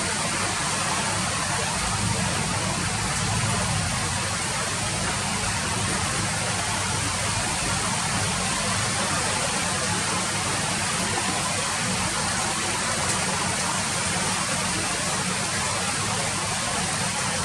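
Steady rain falling: an even, unbroken hiss with a low rumble beneath it.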